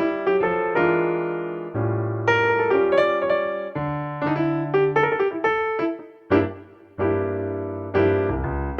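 Background piano music: soft chords and melody notes played slowly, with a brief pause about six seconds in.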